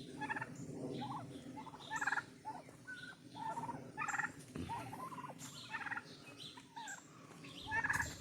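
Domestic turkeys gobbling: a series of short, rapid gobbles repeating every second or two.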